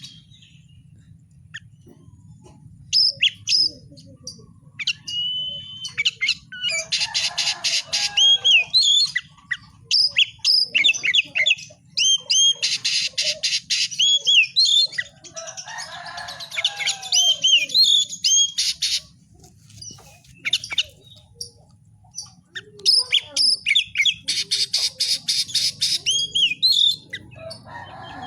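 Oriental magpie-robin (kacer) singing a varied song in bursts: clear slurred whistles mixed with harsh, rapid rattling phrases, with short pauses between bouts. A steady low hum runs underneath.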